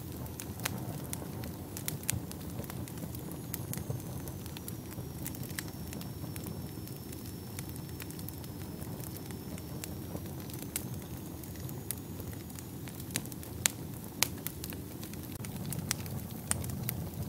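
Wood fire burning in a fireplace: a steady low rumble of flames with irregular sharp crackles and pops, and a couple of louder pops late on.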